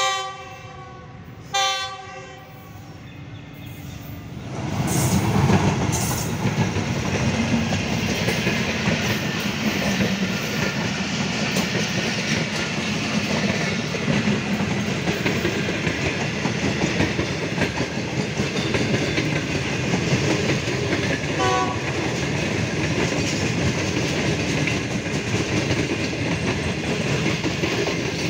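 Passenger train's locomotive horn sounding: a blast that ends just as the sound begins, then a short second blast about two seconds in. From about four seconds in, the coaches' steady rumble and wheel clatter as the train passes.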